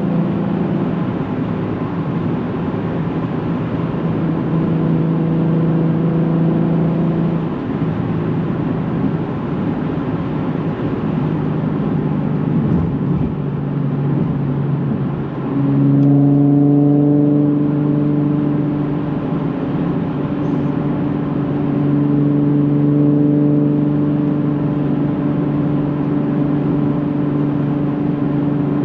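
Nissan 370Z's 3.7-litre V6 running through a Tomei titanium catback exhaust, holding a steady droning note under way. Partway through, the note fades back. It then dips briefly and returns stronger at a new steady pitch, as after a gear change.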